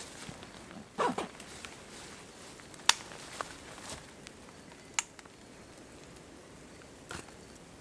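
Small hard gear being handled: a brief scrape about a second in, then two loud sharp clicks about two seconds apart, with a few fainter clicks among them.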